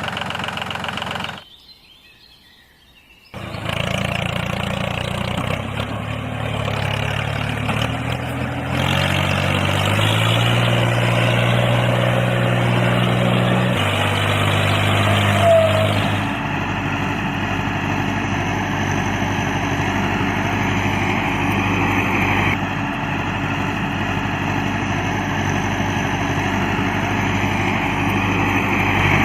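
Small electric motor of a homemade toy tractor whirring steadily, its pitch stepping up and down several times. There is a short drop-out about a second and a half in.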